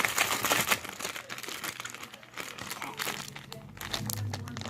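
Dense crinkling and crackling, heaviest in the first second, then scattered crackles, like something being squeezed or handled. A low hum comes in about four seconds in.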